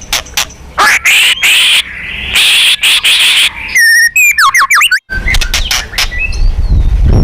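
White-rumped shama (murai batu) calling and singing: two long harsh, rasping calls, then about four seconds in a quick run of loud whistled notes sweeping up and down, followed by sharp clicking notes.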